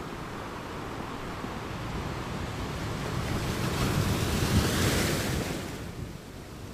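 A rushing noise that swells to a peak about four to five seconds in, then dies away.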